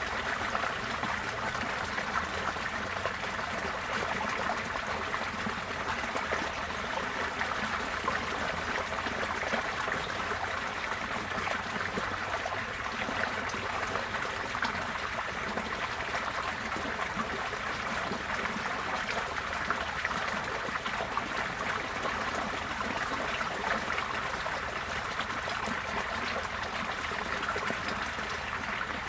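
Receding floodwater running steadily, a continuous rush of flowing water.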